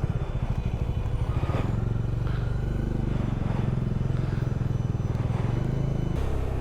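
Motorcycle engine running steadily at low revs with an even, fast pulsing note, which shifts slightly near the end.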